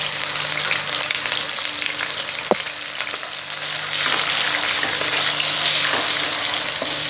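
Ginger and green chilli paste sizzling in hot oil in a kadai, stirred with a wooden spatula that scrapes the pan. The sizzle grows louder about four seconds in, after one brief squeak.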